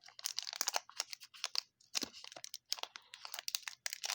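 Plastic wrapper of a baseball card pack crinkling and crackling in irregular bursts as it is handled and opened.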